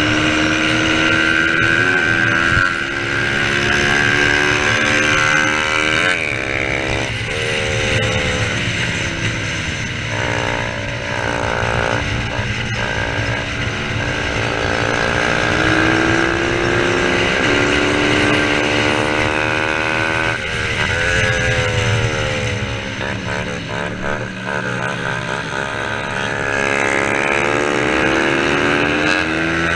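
Racing motorcycles of 250 cc or less running hard. Their engine pitch climbs and drops again and again as they accelerate, shift and slow for corners, with more than one bike heard at once.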